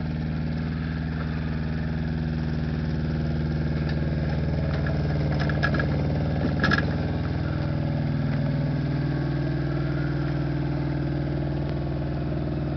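Mini excavator engine running steadily as the machine digs, with a few sharp metallic clanks about five to seven seconds in and a brief dip in engine pitch a little later.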